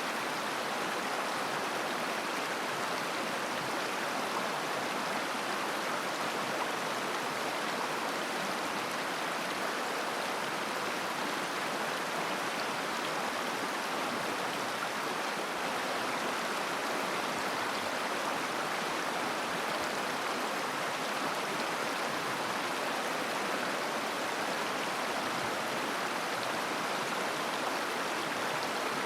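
River water flowing and babbling over stones, a steady rushing with no breaks or changes.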